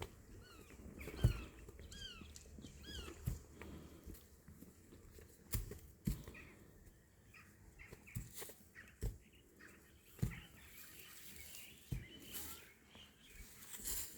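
Small birds chirping in a quick series of short falling notes during the first few seconds, over a faint outdoor background, with about eight irregular soft knocks or thumps spread through.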